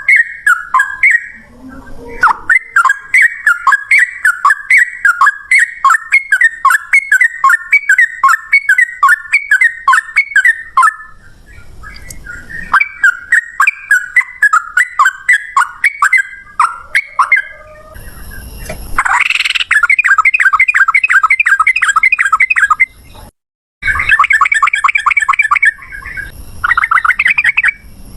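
Sooty-headed bulbul singing its fast 'ropel' song: rapid runs of repeated chattering notes in several bouts with short pauses, faster near the end. There is a brief sudden silence about two-thirds of the way through.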